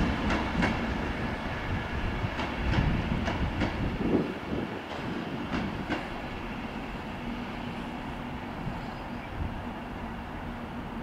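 A train running on the track, its wheels clicking over rail joints for the first several seconds and fading as it moves away, leaving a faint steady hum.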